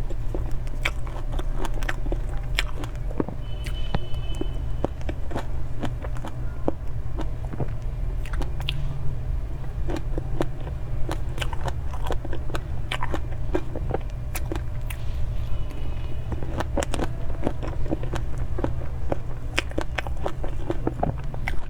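Close-up eating sounds: irregular mouth clicks, smacks and chewing of soft cream cake, over a steady low hum.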